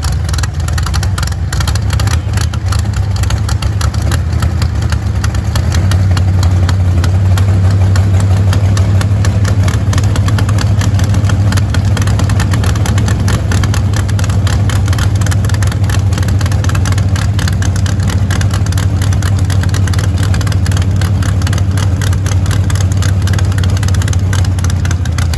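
Race car engine running at a steady idle. The low, pulsing idle grows a little louder about six seconds in and then holds.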